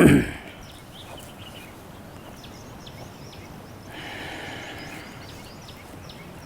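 Outdoor ambience: a steady quiet background with faint, short bird chirps scattered through the second half. A brief louder sound comes right at the start.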